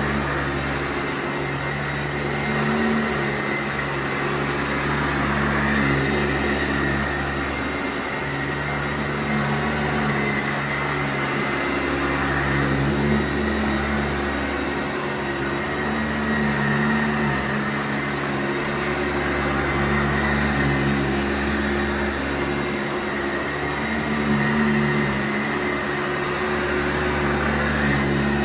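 Sanitaire SC684G upright vacuum cleaner running over carpet, a steady motor hum with airflow hiss that swells and eases every few seconds as it is pushed back and forth.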